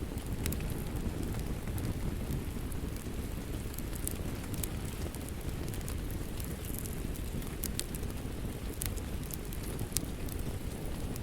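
Steady rain with a wood fire crackling over it: a low, even rushing noise with sharp pops and snaps scattered through it.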